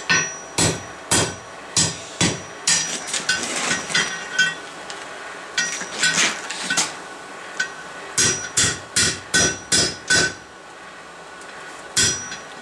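Hand hammer striking hot steel on an anvil in steady runs of about two blows a second, each blow ringing briefly, with short pauses between runs.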